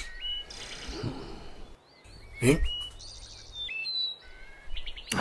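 Birds chirping in short whistled notes, with a single sharp knock about halfway through.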